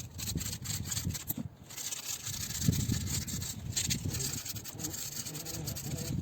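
Irregular rubbing and scraping strokes on a car blower motor's metal shaft as it is cleaned.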